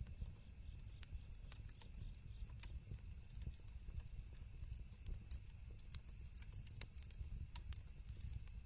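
Campfire crackling, with sharp irregular pops over a low steady rumble, and a steady high chirring of crickets behind it.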